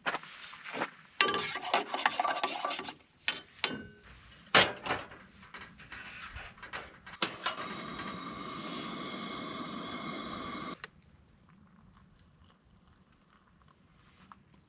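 Camp cooking handling sounds: a utensil and cookware clicking, scraping and rubbing in scattered strokes. Then a steady hiss with a thin whine runs for about three seconds and cuts off suddenly.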